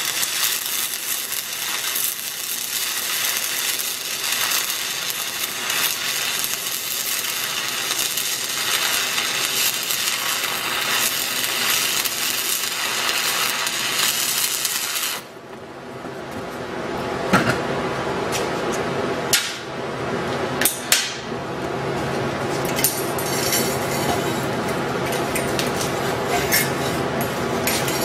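Stick-welding arc crackling and sizzling steadily as a downhill bead is run on pipe. About fifteen seconds in the arc breaks off for a moment, then the crackle resumes fuller, with a few sharp metallic clicks over the next few seconds.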